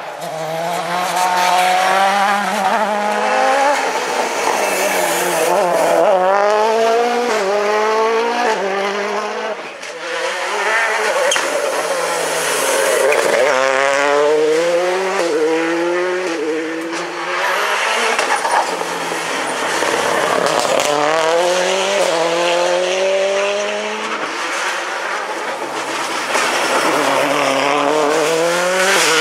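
Rally car engines revving hard and shifting up, each climb in pitch snapping back down at a gear change, again and again, over a hiss of tyre noise.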